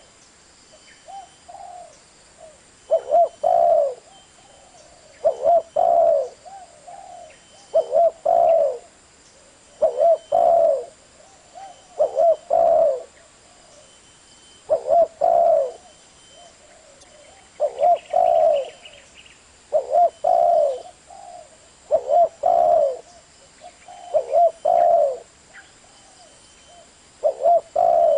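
Spotted dove cooing: the same short coo phrase repeated about every two and a half seconds.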